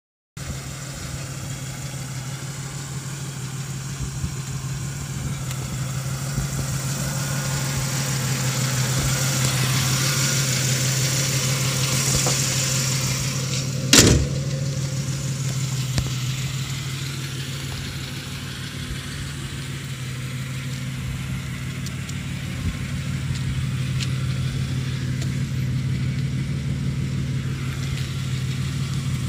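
1990 Pontiac Bonneville's 3.8-litre V6 idling steadily, the sound rising and falling slightly in loudness. A single sharp knock comes about halfway through.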